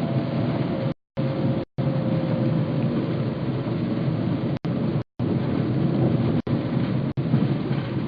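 Steady rumbling noise of a car on the move, with a faint steady hum in it, cut off abruptly by several short dead-silent gaps.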